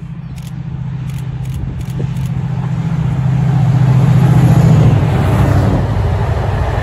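Two locomotives heading a container freight train pass close by, running with a steady low drone that grows loudest about four to five seconds in. A rushing rumble of the wagons on the rails builds near the end.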